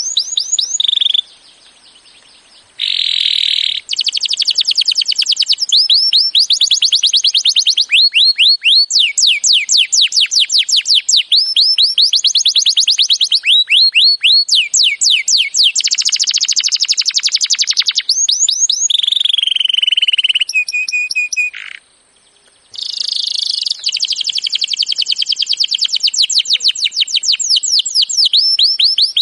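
Recorded songbird song, a bird-training 'masteran' track: loud, rapid trills of high, downward-sweeping notes, run together in long phrases with a few held whistles. Two short breaks, one about a second in and one near the end.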